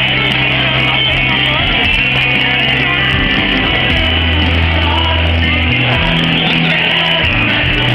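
Live pop-rock band playing with singing, heard through a phone or camera microphone at a concert, with a heavy bass line and a muffled, narrow top end.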